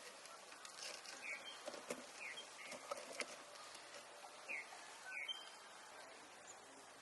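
Faint outdoor ambience: birds giving short chirps four or five times, over a steady low hiss, with a few light clicks in the first few seconds.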